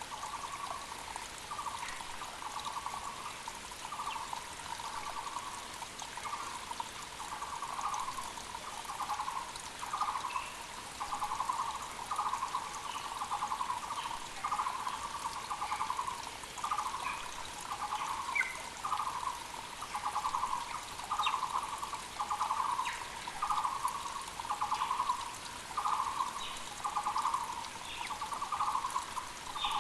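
Muller's barbet (Taiwan barbet) calling: a short trilled call repeated steadily about once a second. Underneath runs the even rush of a mountain creek, with faint brief chirps from other small birds.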